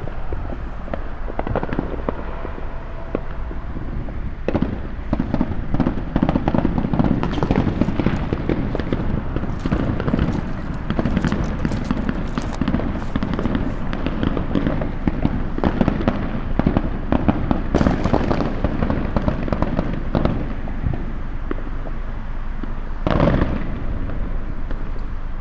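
Many fireworks and firecrackers going off together in a dense, continuous crackle of pops and bangs. It thickens a few seconds in and carries on, with one louder single burst near the end.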